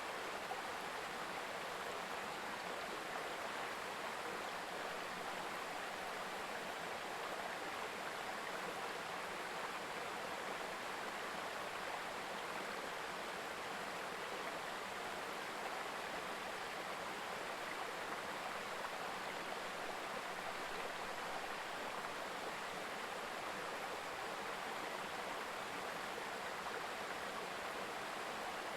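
Mountain river babbling: a steady, even rush of running water.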